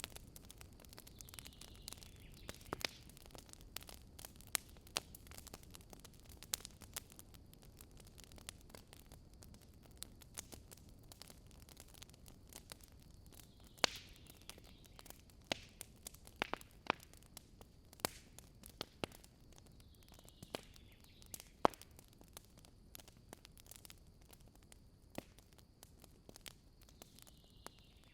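Wood campfire crackling: irregular sharp pops and snaps of burning wood, a few louder ones, over a faint steady hiss of the flames.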